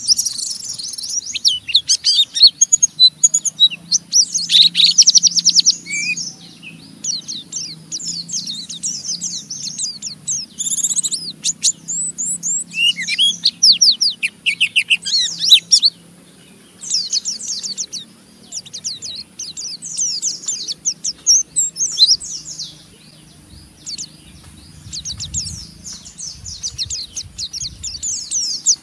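Pleci (white-eye) birds singing the 'ngeriwik' song: rapid, high, scratchy chattering runs of notes in bouts with brief pauses between them.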